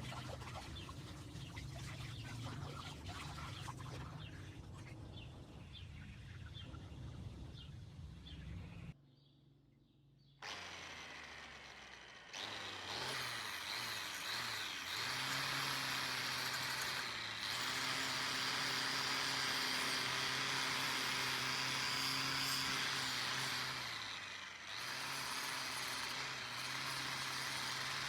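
Workshop tool sounds in separate edited stretches: a low hum with scattered ticks, a brief near-silent break about nine seconds in, then a power tool's motor running steadily at a constant pitch, dipping briefly near the end.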